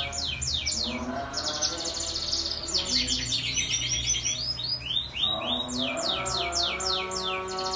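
Domestic canary singing: fast trills of high, repeated downward-sweeping notes, the trill changing speed and pitch every second or so, without pause.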